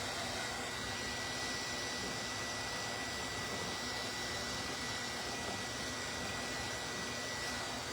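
Steady background hiss with a thin, faint high tone running through it, unchanging and without any distinct knocks or other events.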